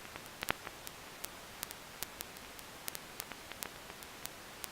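Steady hiss scattered with sharp, irregular clicks and pops, like crackling static, several a second.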